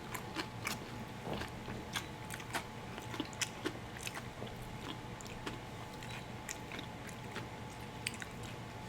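Close-up eating sounds: fried chicken being bitten and chewed, with irregular crisp clicks and smacks.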